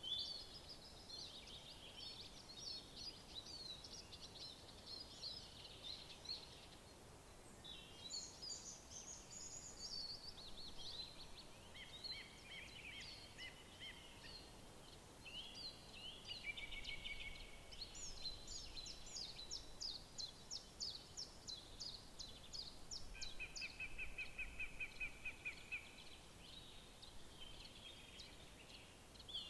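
Several songbirds singing over one another, with fast repeated trills now and then, over a faint steady background hiss.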